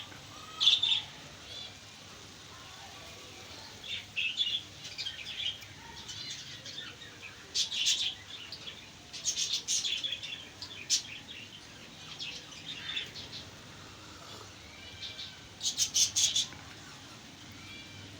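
Aviary birds chirping in short, scattered bursts of high calls, with a louder cluster of quick chirps near the end.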